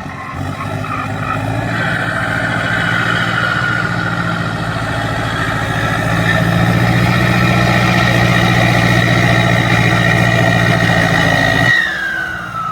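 Turbocharged diesel tractor engine held at high revs, with a high turbo whistle that climbs slowly. Near the end the throttle drops, the engine note falls away suddenly and the whistle glides down as the turbo spools down.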